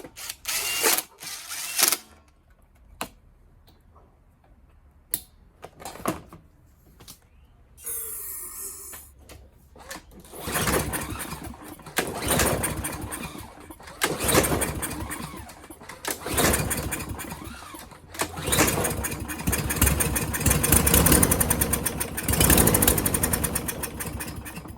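Briggs & Stratton lawn mower engine being pull-started: several short cranking bursts, then it catches and runs unevenly for several seconds, weak rather than hard-running. It is running on bad fuel that is later found to be heavily contaminated with water. Earlier, a few handling clicks and a short hiss.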